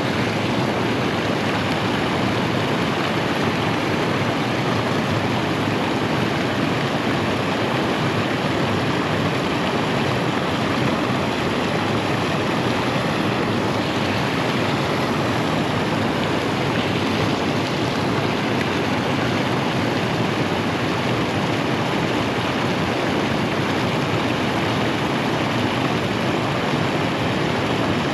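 Steady rush of flowing water, an even unbroken noise with no change in level.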